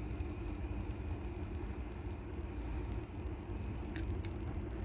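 Train rolling past on the track: a steady low rumble, with two sharp metallic clicks close together about four seconds in.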